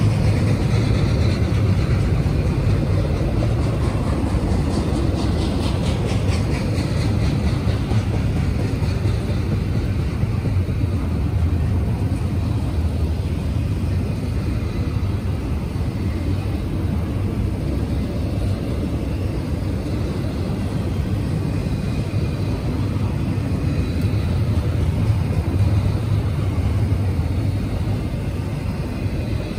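Double-stack intermodal freight train rolling past: a steady rumble of steel wheels on rail as the container cars go by.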